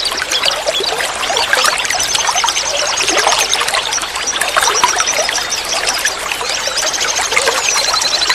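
Small stream of water trickling and babbling. A few times, a small songbird sings a rapid, high-pitched trill over it.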